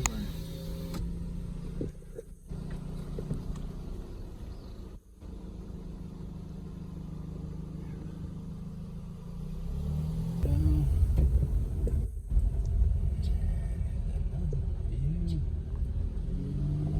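Car driving, a steady engine and road rumble that grows louder about ten seconds in.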